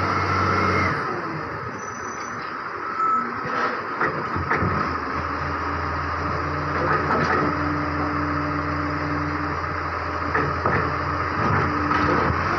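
Garbage truck's diesel engine running steadily, with several clanks and knocks about four seconds in and again around seven and ten seconds in.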